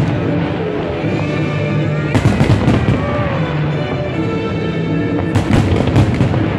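Aerial fireworks shells bursting in quick clusters of bangs, twice: about 2 seconds in and again about 5 and a half seconds in. Music plays steadily throughout.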